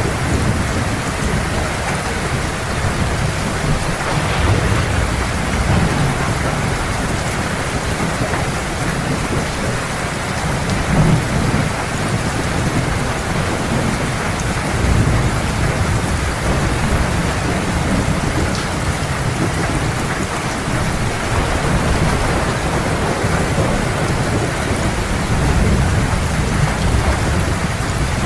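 Heavy rain falling steadily, with low thunder rumbling underneath that swells and fades several times.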